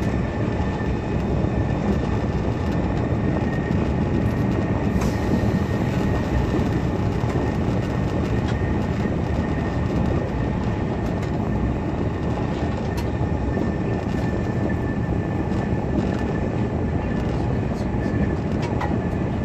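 SNCF TGV high-speed train running at speed, heard from inside the carriage: a steady, unbroken rolling rumble with a faint high whine over it.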